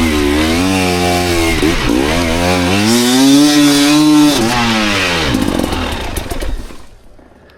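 Dirt bike engine revving up and down under the rider, climbing to a long high rev around the middle, then dropping and dying away to quiet near the end.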